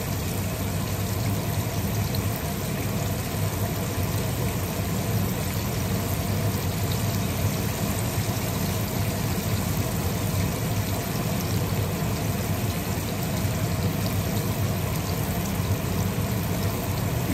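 Flour-coated pork chops frying in hot oil in a skillet: a steady bubbling and crackling sizzle that does not let up.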